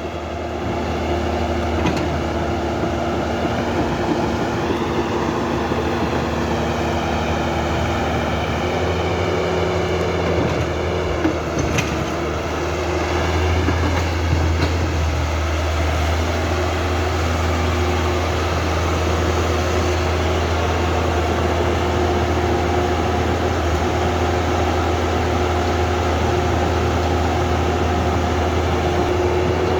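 Small electric gear motors of a Huina 1550 RC excavator whining steadily as the machine works, the pitch wavering a little, with a couple of sharp clicks about twelve seconds in.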